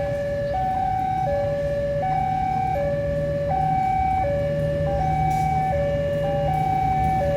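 Electronic two-tone warning alarm sounding a steady hi-lo pattern, each note held about three-quarters of a second, over a steady low hum that grows a little stronger about halfway through.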